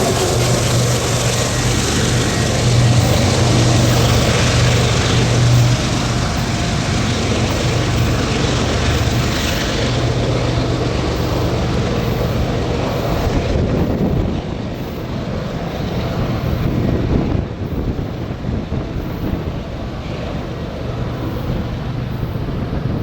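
Diesel freight locomotives running, a steady low engine hum over broad rumbling noise, getting somewhat quieter about two-thirds of the way through.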